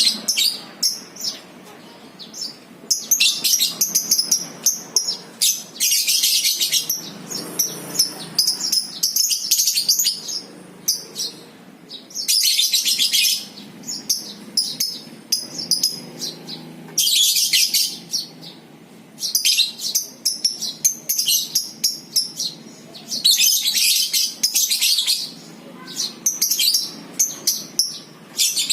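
Lovebirds giving their long, rapid chattering 'ngekek' song in repeated high bursts of a second or two, with short pauses between them.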